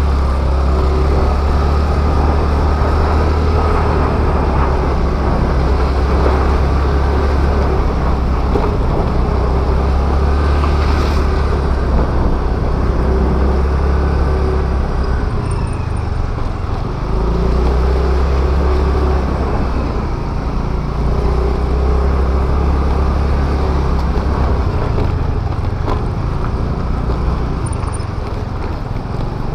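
Honda Activa scooter under way on a road: a steady low wind rumble on the microphone over the engine and road noise, easing for a moment about halfway through.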